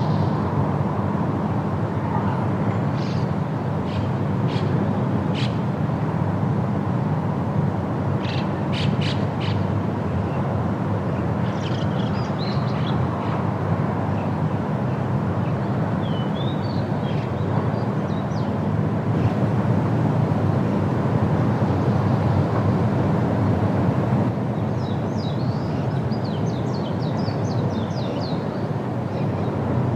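Steady wind blowing through trees, with birds calling and chirping in short bursts now and then over it.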